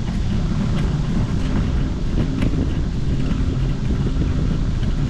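Steady low rumble of wind buffeting the microphone and rolling noise from riding along on a bicycle at speed, with a few faint clicks.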